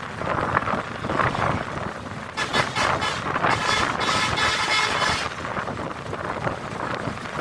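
A moving bus running with steady road and wind noise. About two and a half seconds in, a vehicle horn sounds for close to three seconds, then stops.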